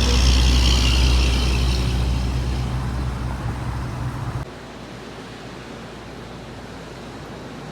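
Motor vehicle running, a loud steady low hum, that cuts off abruptly about four and a half seconds in, leaving a quieter steady hiss.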